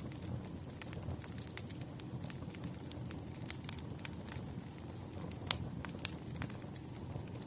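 Wood fire crackling: irregular sharp pops and snaps over a steady low rumble, the loudest pop about five and a half seconds in.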